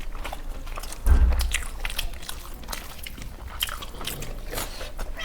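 A person biting and chewing crunchy food close to the microphone, with many short crisp crunches, and a low thump about a second in.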